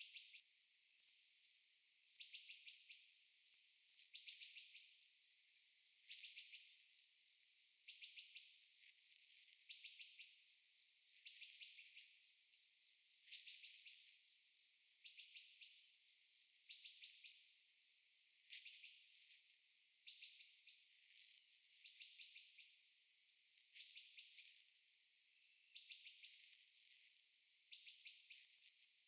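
Faint insect chirping, cricket-like: a short trilled pulse roughly every two seconds over a steady high-pitched hiss of more insects.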